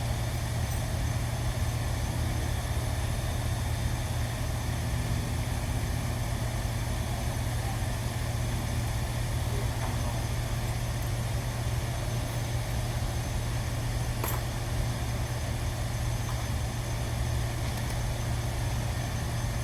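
Steady low hum of machinery running, with no change in pitch or level.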